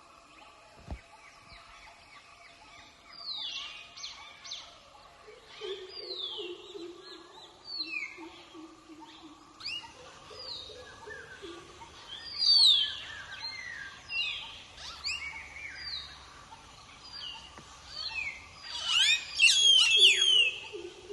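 Birds calling in a chorus of quick, down-slurred whistles over lower falling notes, getting busier and louder near the end.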